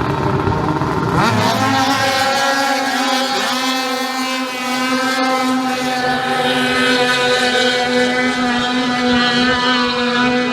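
Car engine revving up about a second in, then held at steady high revs for several seconds with an even, unchanging pitch.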